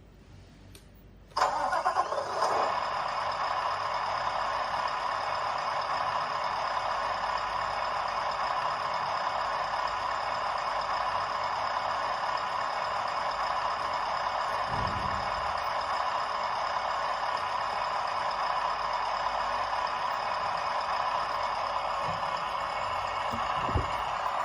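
Electronic sound module of a radio-controlled Scania truck model playing a diesel engine start through its small speaker, cutting in suddenly about a second and a half in and then running steadily at idle. The sound is thin and lacks low bass.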